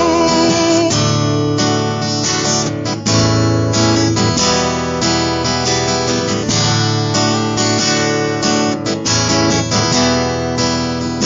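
Instrumental break in a country-rock song: strummed acoustic guitar carrying the chords between verses.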